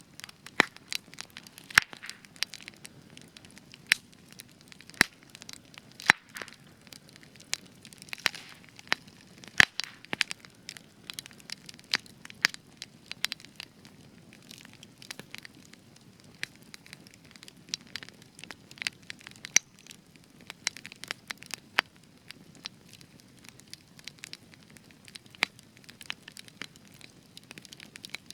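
Spruce wood burning in a campfire, crackling with frequent sharp irregular pops over a soft low rush of flame.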